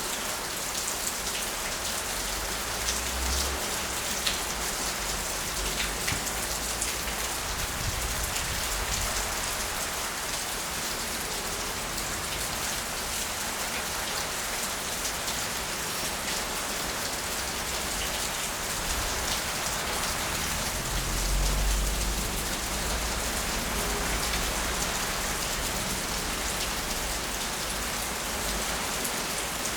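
Heavy rain pouring steadily in a storm, a dense patter of drops on surfaces. A low rumble swells a few times, loudest about two-thirds of the way through.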